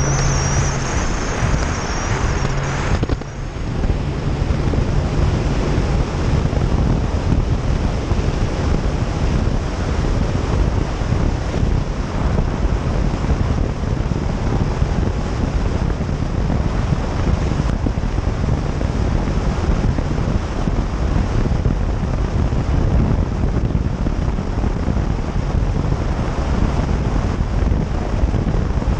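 Phantom 21 powerboat under way: a steady engine tone for about the first three seconds, then heavy wind buffeting on the microphone and rushing water cover it.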